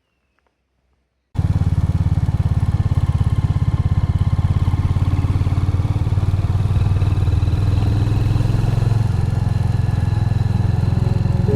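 Royal Enfield Hunter 350's single-cylinder engine running with a steady, fast low thump, cutting in suddenly from silence about a second in.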